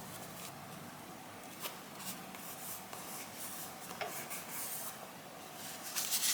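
Faint paper rustling and a few light taps as paper cutouts are handled and moved about on a journal page, a little louder near the end.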